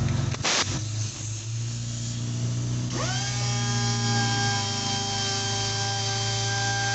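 An electric power tool's motor spins up about three seconds in and then runs at a steady speed with a high whine, over a steady low machine hum. There is a sharp click about half a second in.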